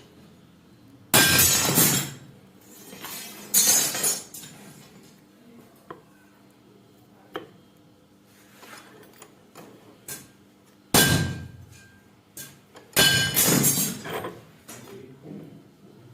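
Hard objects clinking and clattering in four short, loud bursts of about a second each, with a few single clicks between them.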